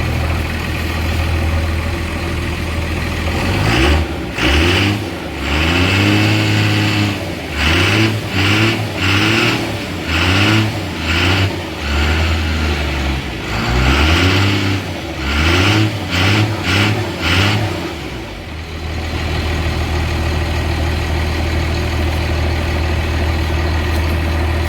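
12-valve Cummins inline-six turbo diesel idling, then revved in about a dozen quick throttle blips over some fifteen seconds before settling back to a steady idle. The revving is to blow out rainwater that has collected in the exhaust.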